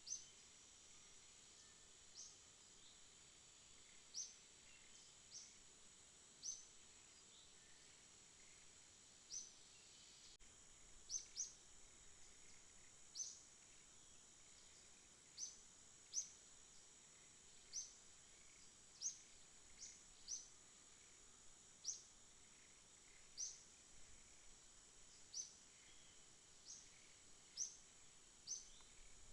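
Faint night ambience: a steady high drone of insects, with short high chirps repeating irregularly about every one to two seconds.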